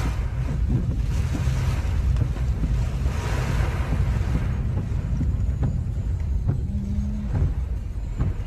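Strong tropical-storm wind buffeting the microphone in a low, steady rumble, with a gust rising into a louder rushing hiss about three seconds in.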